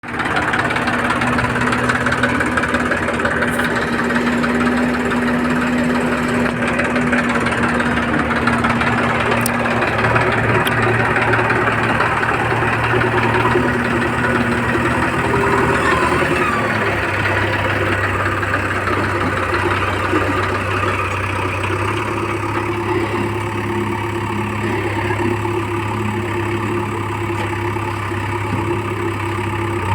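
JCB 3DX backhoe loader's diesel engine running steadily, its note settling slightly lower a little past halfway.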